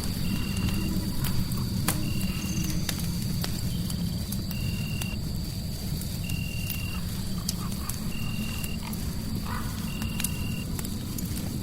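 Fireplace crackling with scattered sharp pops over a low steady rumble. A short high chirp repeats evenly, roughly every two seconds, over a thin steady high whine, as in a night-time nature ambience.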